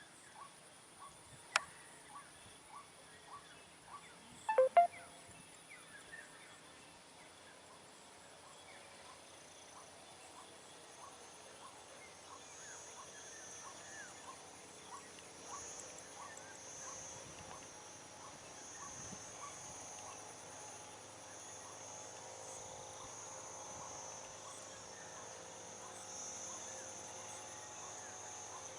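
Outdoor insect chorus: a steady high-pitched trilling that builds from about a third of the way in, over regular short chirps about twice a second. There is a sharp click a second or so in, and a brief louder burst of sound a few seconds later.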